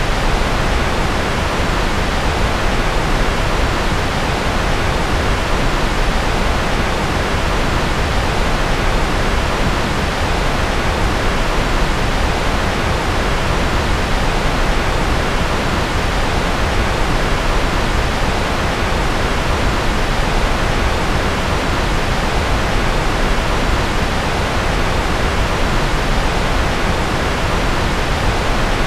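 Steady, electronically generated white noise: an even, unchanging hiss, fuller in the low end than in the highs.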